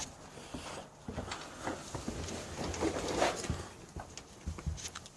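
Irregular knocks, clunks and scraping from the pocket bike's engine and frame being handled and shifted during engine removal, busiest about two to three and a half seconds in.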